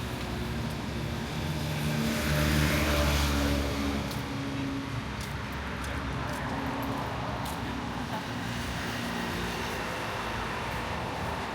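Street traffic, with a motor vehicle passing close by about two to four seconds in, its engine growing louder and then fading, before the steady background traffic continues.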